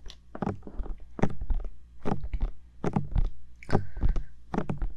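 Bare fingertips tapping on the silicone ears of a 3Dio binaural microphone: irregular close, dull taps with a low thud, about three a second.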